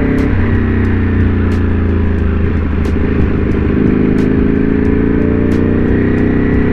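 Motorcycle engine running while riding. Its pitch drops slightly early on, then climbs slowly through the second half as the bike gathers speed.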